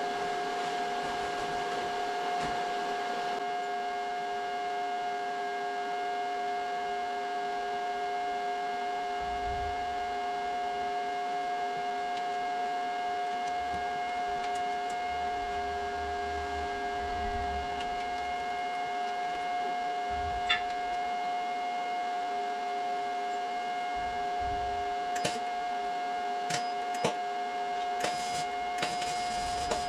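A machine running steadily with an even, high-pitched hum, and a few sharp clicks near the end.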